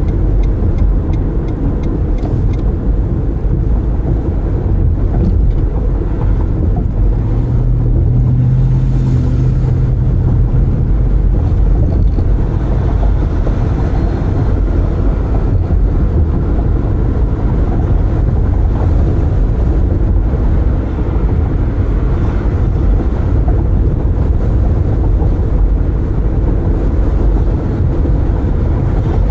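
Car driving at road speed with the windows open: a steady low rumble of tyres and wind. A low hum swells briefly about eight seconds in.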